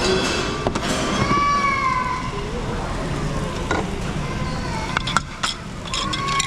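Busy restaurant dining noise: a steady hum of the room under voices, with a high gliding voice about a second in and several sharp clicks or knocks near the end.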